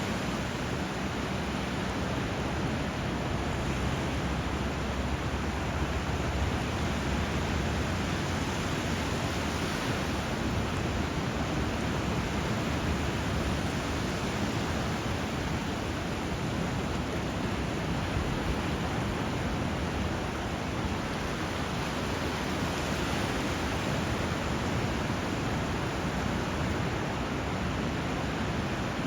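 Steady rushing of flowing water, an even hiss and rumble with no distinct swells or breaks.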